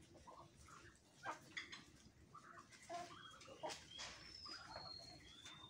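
Faint background with a few short, high bird whistles in the second half, among scattered faint clicks.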